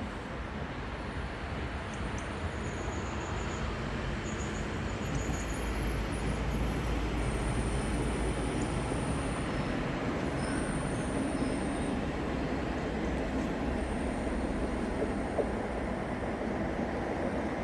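Train moving through the station: a steady rumble that grows a little louder about six seconds in, with faint, short high-pitched squeals above it.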